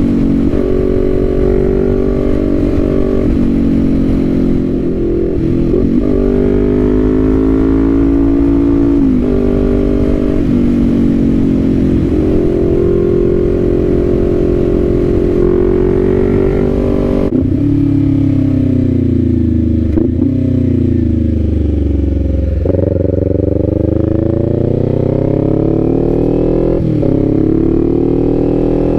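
Kawasaki Z400's parallel-twin engine under way, its revs climbing and breaking off with a gear change every few seconds. A little past halfway the pitch falls steadily as the bike slows. It then pulls away again, the revs rising through two more gear changes.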